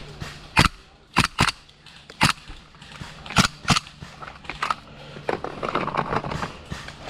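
Airsoft guns firing: a string of sharp single pops at irregular intervals, about eight in all.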